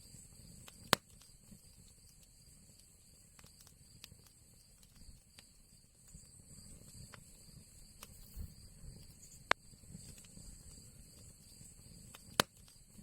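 Fire crackling in an old chimney: a low flutter of flames with scattered small crackles and three sharp, loud pops, about a second in, about three-quarters of the way through and near the end.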